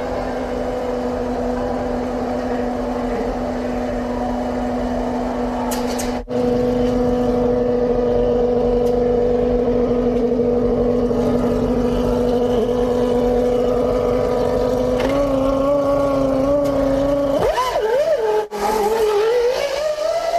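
Formula One cars' 3.0-litre V10 engines held at a steady high rev note, cutting out briefly twice. Near the end the note wavers and then rises as the engines accelerate.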